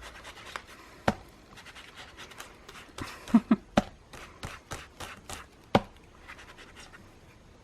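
Ink-blending sponge dabbing Distress ink onto paper through a heart stencil: a run of soft, irregular taps, with a few sharper knocks on the work surface in between.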